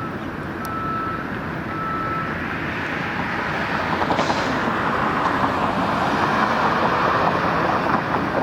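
Reversing alarm on a construction vehicle, beeping about once a second and stopping a couple of seconds in, over steady vehicle and traffic noise that grows louder after the beeps end.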